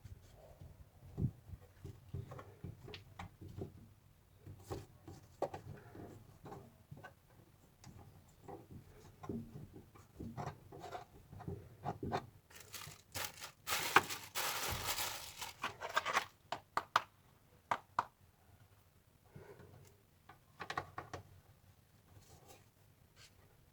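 Scattered small clicks, knocks and rustling from handling parts and tools, with a louder rustling, hissing noise for about three seconds midway.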